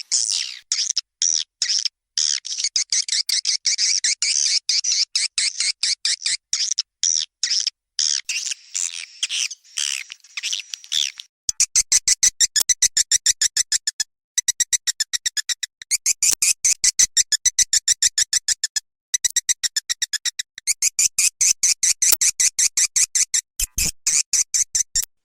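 Recorded swiftlet calls played as a lure for swiftlets: loud, high twittering chirps, changing about eleven seconds in to a fast, even train of short clicking chirps broken by a few brief pauses.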